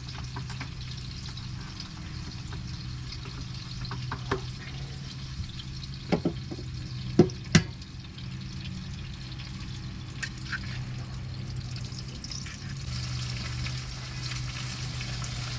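Sucuk and eggs frying in a pan with a steady sizzle. A few short sharp knocks and clicks come a few seconds apart, the loudest in the middle, over a steady low hum.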